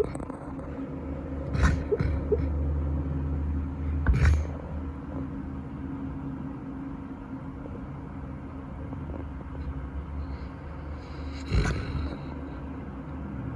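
Golden retriever snoring in deep sleep: a low, rumbling drone, strongest for a few seconds early on, broken by short, sharp, loud sounds about two, four and twelve seconds in.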